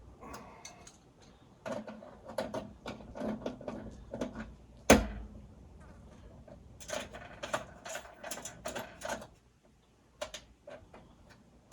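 Irregular clicks, scrapes and clanks of hand tools and metal plumbing fittings being handled, with one sharp knock about five seconds in.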